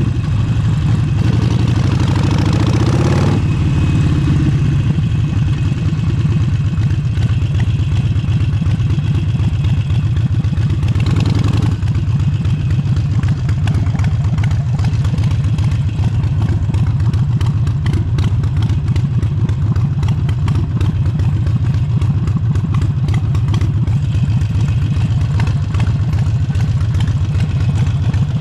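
Harley-Davidson Forty-Eight's air-cooled 1200 cc V-twin running through an aftermarket exhaust. Its pitch drops over the first few seconds, then it holds a steady note.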